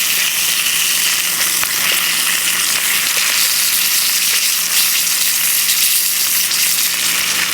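Bacon and eggs frying in a pan over a wood-burning rocket stove: a steady sizzle with a few faint crackles.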